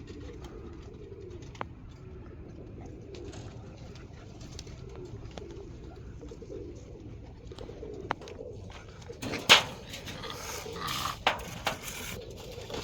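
Domestic roller pigeons cooing in a loft, with scattered small clicks. From about nine seconds in, louder rough scraping and rubbing strokes start, as loft surfaces are scraped and rubbed with sand.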